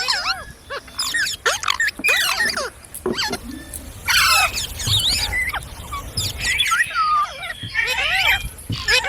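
Green parrots calling, a rapid stream of short squawks and arched, chirping calls that overlap one another.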